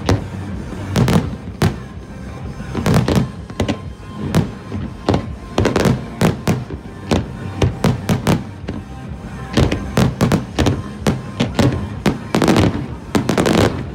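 Fireworks shells bursting: a continuous, irregular string of sharp bangs, packed into quick clusters with brief lulls between them.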